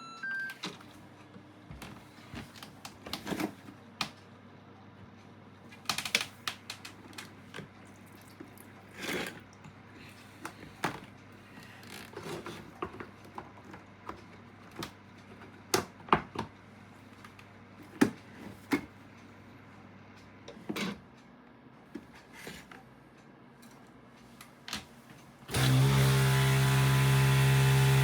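Scattered light clicks and knocks, then near the end a high-pressure water pump switches on suddenly and runs loud and steady with a buzzing hum, feeding water into a 1 kg mini washing machine as it calls for its fill.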